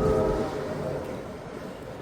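Locomotive air horn sounding a held chord that cuts off about half a second in, leaving a low rumble of wind on the microphone.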